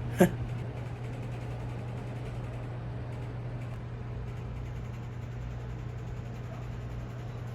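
Steady low mechanical hum with one short knock just after the start.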